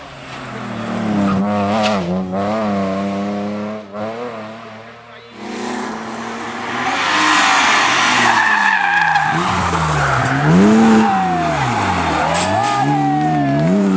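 BMW 3 Series drift car's engine revving and falling back while its tyres squeal and skid. The tyre noise comes in about five seconds in and carries on as the engine pitch drops and climbs again several times.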